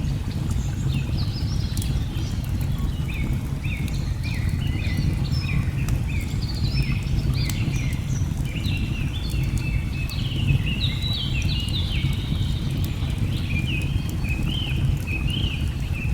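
Birds chirping and singing in many short, quick notes over a steady low rush of water, with a few faint crackles from a wood fire.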